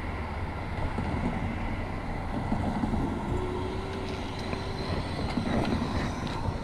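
Steady rumble of wind and tyre noise on an action camera riding along on a road bicycle, with a faint steady tone in the middle.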